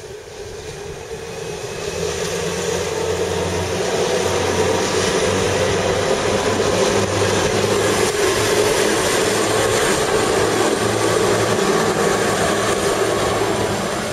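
Gornergratbahn electric rack-railway train passing close by, growing louder over the first few seconds, then running loud and steady with a low hum and a grinding drone before easing slightly near the end.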